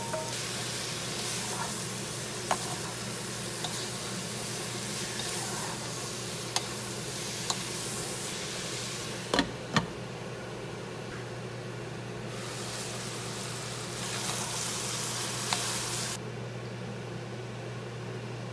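Diced chicken thigh, onion, bell pepper and jalapeño sizzling in very hot oil in a saucepan, with a few small clinks. About nine and a half seconds in come two knocks as the glass lid goes on. The sizzle then turns duller and quieter under the lid near the end.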